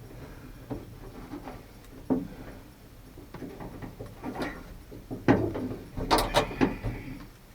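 Scattered clicks and knocks as a replacement pickup-truck outside door handle and its folding mechanism are worked by hand, with a louder cluster of knocks in the last couple of seconds.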